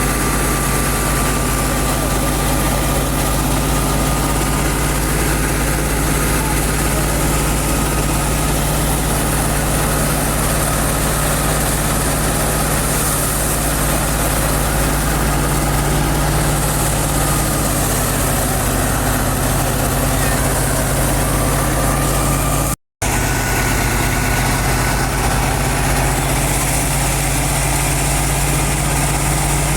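Fiat 640 tractor's four-cylinder diesel engine running steadily at a constant speed. There is a split-second break in the sound about three-quarters of the way through.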